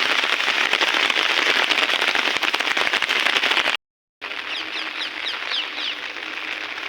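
Heavy rain falling, a dense pattering of drops. It cuts out for a split second a little past halfway, then goes on lighter, with a few short high chirps over it.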